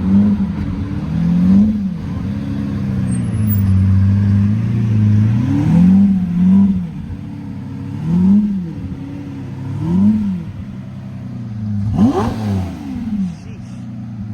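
A car engine revved repeatedly in short blips, its pitch rising and falling back about every two seconds, idling steadily in between.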